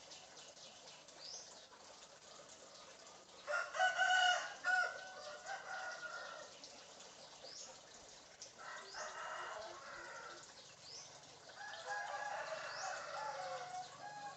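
Bird giving rooster-like crowing calls in three bouts. The first, about four seconds in, is the loudest. Faint short high chirps are heard throughout.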